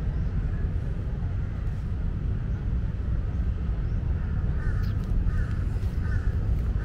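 Steady low rumble, with a bird calling three times in quick succession a little past the middle.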